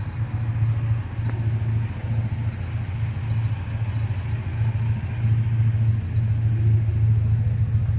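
1958 Sunbeam Rapier's four-cylinder engine idling steadily while still warming up from a cold start. It grows a little louder about halfway through.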